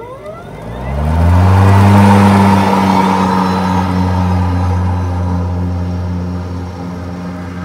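An EGO 56-volt cordless Select Cut lawnmower's electric blade motor spins up with a rising whine over the first second or so. It then runs steadily, with a hum and a rush of air from the spinning blades, set up for mulching.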